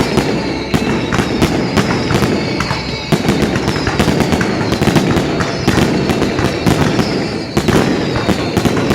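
Fireworks display going off: a dense, continuous barrage of bangs and crackling, with faint high whistles falling in pitch.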